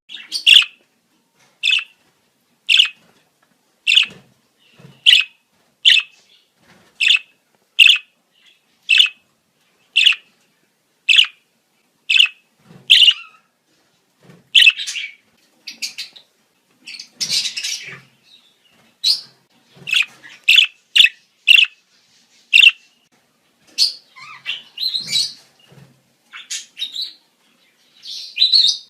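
Budgerigars chirping in the breeding season: short, sharp calls repeating about once a second, turning into a busier, more varied chatter about halfway through.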